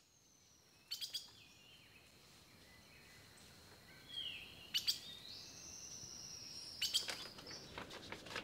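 Faint bird calls: high chirps and a few gliding whistles, with a few short sharp clicks.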